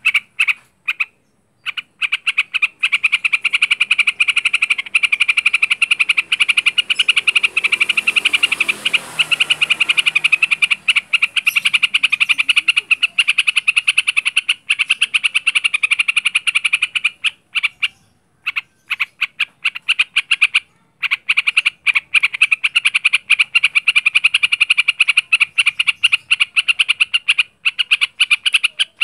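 Yellow-vented bulbul (trucukan) singing in the 'ngaruda' style: a fast, unbroken chattering rattle of rapidly repeated notes, with only a few brief pauses.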